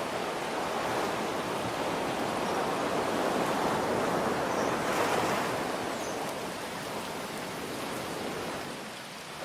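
Ocean surf with rain: a wave swells to its loudest about halfway through and then washes back, over a steady hiss.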